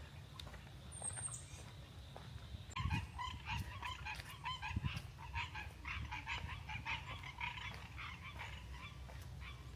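Geese honking, a rapid run of many overlapping calls that starts about three seconds in and dies away near the end. A small bird gives a short high chirp about a second in.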